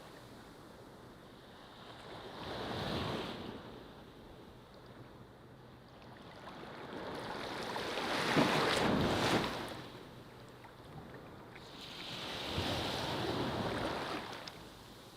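Ocean waves breaking on a beach, three swells of surf, the loudest about halfway through, with a quieter wash between them.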